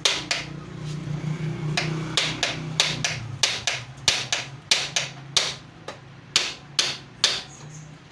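Hammer blows on metal, a steady series of sharp taps about two a second, over a low steady hum.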